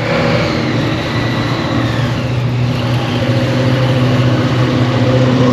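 Car engine running steadily with a deep low hum, slowly getting louder.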